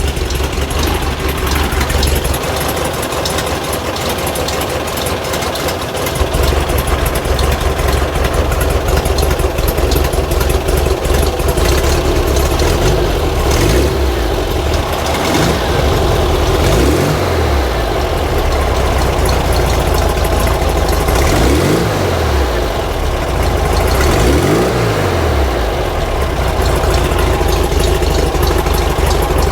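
Air-cooled flat-four engine of a 1950s VW Bus running, getting louder about six seconds in. Its speed swings down and back up several times in the second half.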